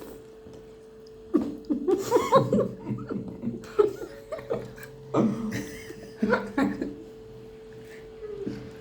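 People laughing and chuckling in four short spells, over a steady hum.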